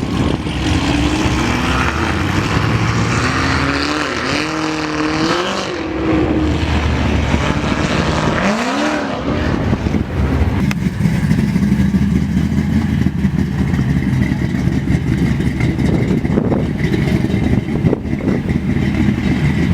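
Car engines revving, the pitch rising and falling several times in the first half, then loud steady engine running.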